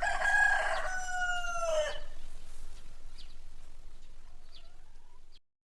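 A rooster crowing: one long call of about two seconds that falls in pitch at the end, followed by a few faint short calls. The sound cuts off suddenly near the end.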